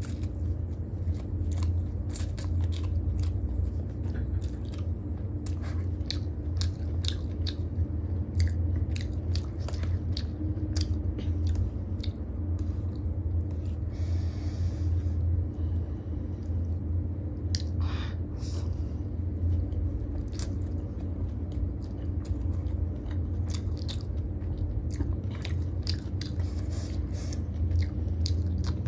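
Close-miked ASMR chewing of chow mein noodles, with many small wet mouth clicks, over a steady low hum.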